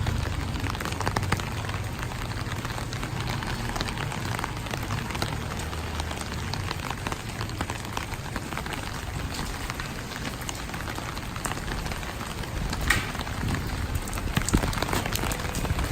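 Steady rainfall, with many individual drops ticking close by. A low rumble fades out over the first few seconds.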